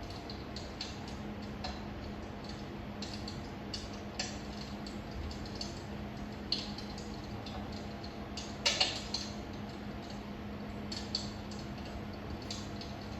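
Wood fire crackling: irregular small pops and snaps over a soft steady hiss, with a sharper double pop about two-thirds of the way through. A faint steady low hum runs underneath.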